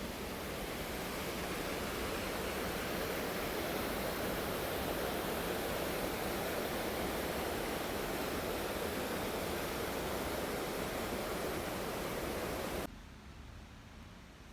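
Steady rush of a waterfall, an even unbroken noise that cuts off suddenly near the end, leaving only a faint hiss.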